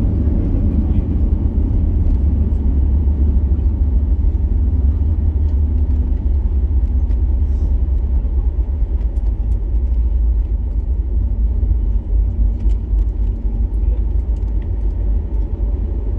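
Steady low rumble of an airliner heard from inside the cabin, with a faint hum above it, as the aircraft lands or taxis.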